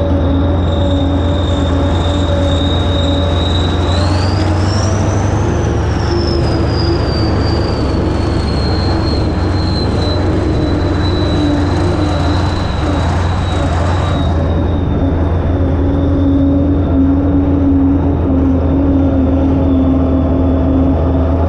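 Kirovets K-700A tractor's diesel engine running steadily, with a high whine that rises about four seconds in and slowly settles back down.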